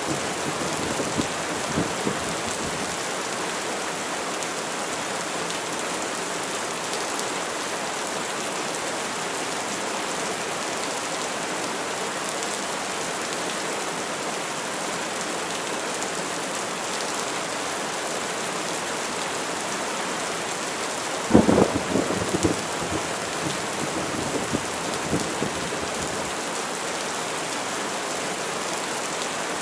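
Steady rain falling. About two-thirds of the way through, a sudden crack of thunder rumbles on for a few seconds. At the start, an earlier roll of thunder is still dying away.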